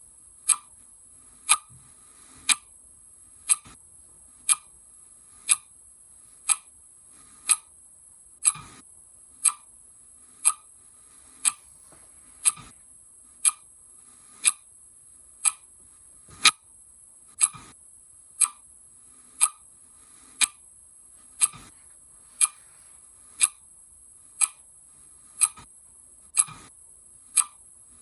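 Clock ticking steadily, one sharp tick a second, over a faint steady high-pitched hiss.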